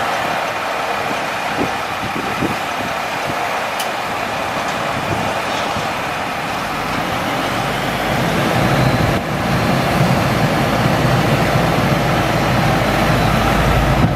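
International DT466E diesel engine of a dump truck running steadily, getting louder and deeper about halfway through.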